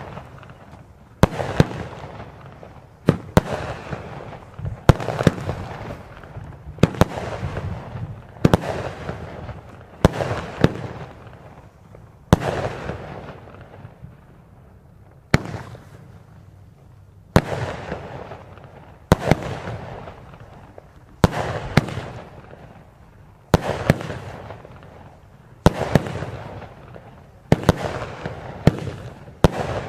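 Vulcan 'Soul Crushers' 16-shot firework cake firing in sequence: sharp shots about every two seconds, each followed by a fading crackle, with a quicker cluster of shots near the end.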